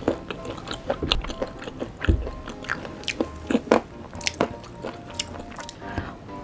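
Close-miked chewing and biting of a sauce-glazed Korean fried chicken (yangnyeom chicken) drumstick: a steady run of crunchy clicks and wet smacks.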